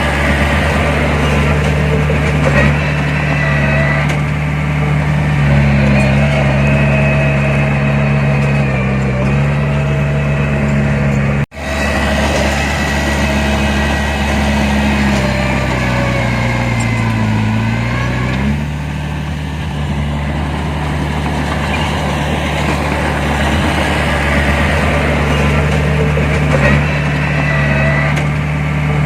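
Heavy diesel earthmoving machinery running steadily, its engine note rising and falling with the work. It sags in pitch for a couple of seconds about two-thirds through, then recovers. The sound cuts out for an instant near the middle.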